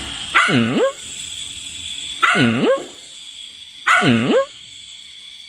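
A dog giving three drawn-out barks about a second and a half apart, each one dipping in pitch and rising again, over a faint steady high whine.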